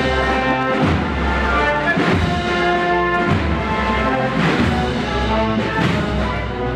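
A Holy Week processional band playing a slow march: brass chords held over low bass notes, with a drum beat about every second and a bit.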